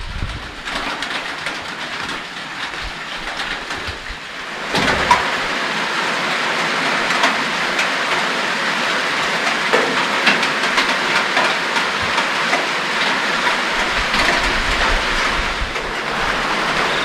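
Rain falling steadily in a dense patter, which suddenly gets louder about five seconds in.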